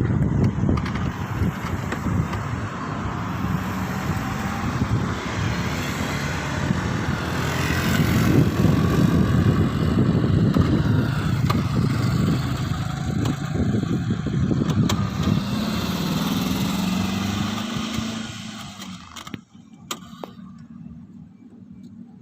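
Motor vehicle engine and road noise, a loud low rumble with an engine tone rising in pitch near the end, then dropping away suddenly to a faint low hum.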